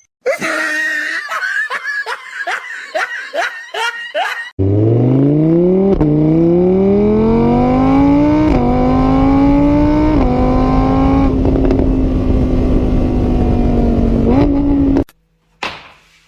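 A quick run of short calls, about two a second, rising and falling in pitch. Then a vehicle engine accelerates, its pitch climbing and dropping back three times as if through gear changes, before it runs steadily and stops suddenly near the end.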